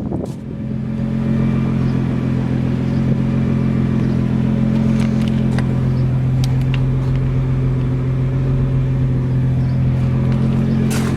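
Nissan GT-R's 3.8-litre twin-turbo V6 idling steadily, with a constant low hum and a few faint clicks.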